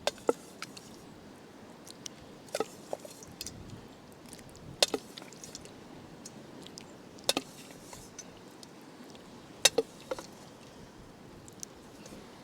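Sharp clicks and knocks of utensils against metal camp cookware as the cooked lamb steaks are served, coming singly or in quick pairs every two or three seconds over a steady background hiss.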